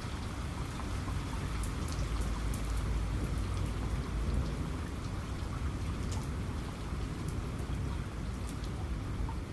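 Steady heavy rain with scattered drops ticking sharply, over a low rumble of thunder that swells in the first half and then eases.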